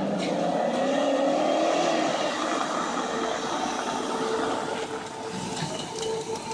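BMW E39 535i's 3.5-litre V8 engine revving: the pitch rises over the first two seconds, then holds steadier.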